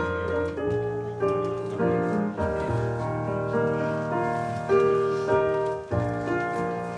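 Piano playing slow, sustained chords, a new chord struck every second or so and left to ring.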